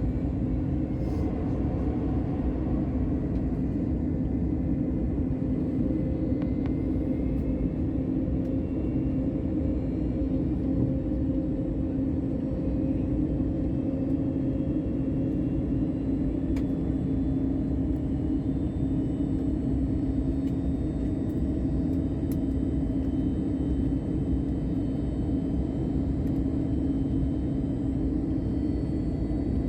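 Airbus airliner cabin noise during the descent toward landing: a steady drone of engines and airflow with a constant low hum.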